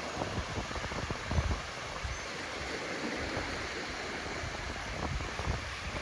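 Ocean waves washing onto a beach in a steady hiss, with wind buffeting the microphone in low rumbles.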